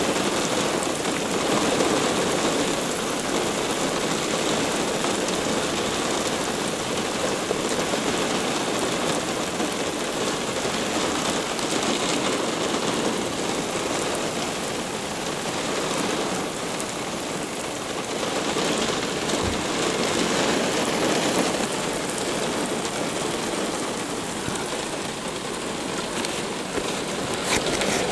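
Heavy thunderstorm rain pouring onto pavement, a steady hiss that swells and eases slowly.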